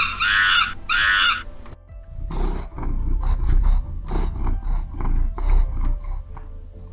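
A high, repeated call stops about a second and a half in; after a short pause a large animal gives a run of rough growling grunts, over a low steady music bed.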